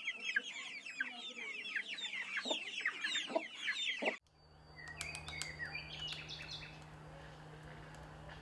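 Many chicks peeping at once, a dense stream of short, high, falling peeps that cuts off abruptly about four seconds in. A quieter stretch follows, with a steady low hum, a few sharp clicks and a faint call or two.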